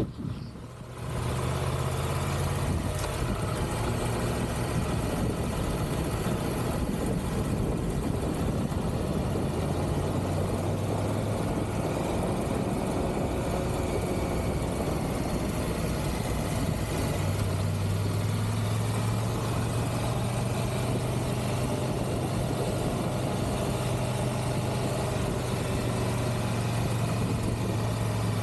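Triumph Tiger 1200 GT Pro motorcycle's three-cylinder engine running at a steady road speed, with wind and road noise over it. The sound gets louder about a second in and then stays even.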